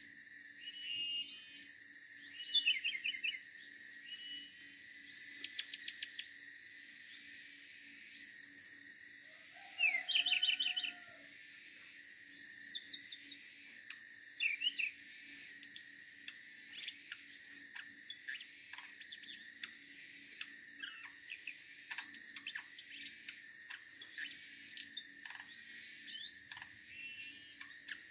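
Siberian blue robin singing: short, fast, high trills and chirps repeated every second or two, over a steady high drone.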